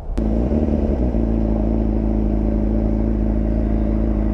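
Motorcycle engine idling steadily, cutting in abruptly just after the start, with a slight wobble in pitch during the first second before it settles.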